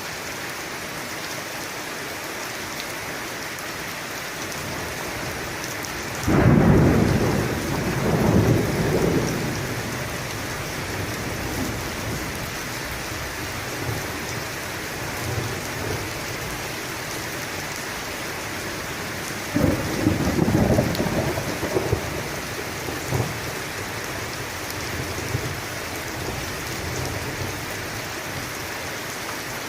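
Thunderstorm: steady rain falling, with two peals of thunder, one about six seconds in and another near twenty seconds, each starting suddenly and rumbling on for a few seconds. The first peal is the loudest.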